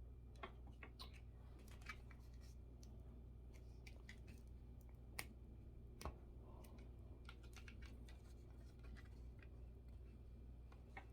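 Scattered light clicks and taps of drying-rack parts being handled and fitted together, with two sharper knocks about five and six seconds in, over a low steady hum.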